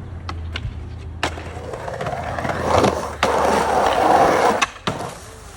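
Skateboard: a few sharp clacks of the board, then a loud rushing stretch of wheels rolling or trucks grinding for about two and a half seconds, ending in a couple of sharp knocks.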